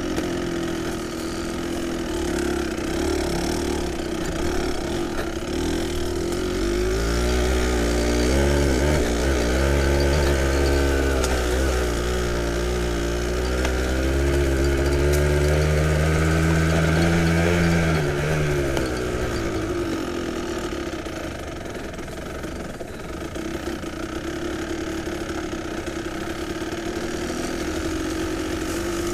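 Kawasaki KDX220SR two-stroke single-cylinder dirt-bike engine running as the bike is ridden along a trail. The revs rise and fall again and again through the middle, then settle to a lower, steadier note for the last third.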